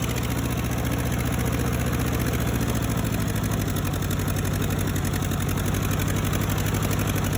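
Ford 8N tractor's four-cylinder flathead engine running steadily as the tractor spins and drifts in second gear, its note changing slightly about three seconds in.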